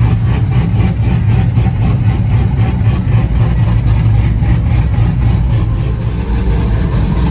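A vehicle engine running steadily, with a loud, deep rumble.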